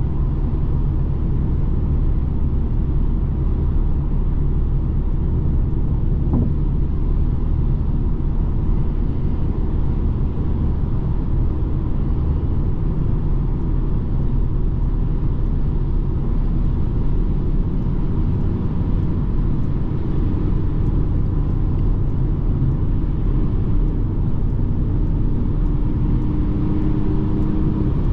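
BMW 220d xDrive Gran Coupé, a four-cylinder diesel, driving at steady speed: a constant low rumble of engine and tyre noise.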